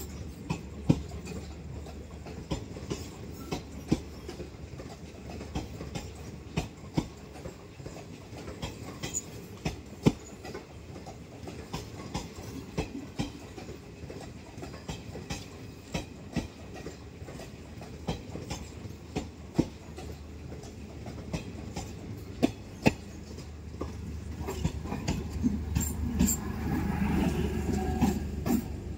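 DEMU (diesel-electric multiple unit) train passing close by along a platform: wheels clicking over rail joints at irregular intervals over a steady low hum, with a louder rumble building near the end.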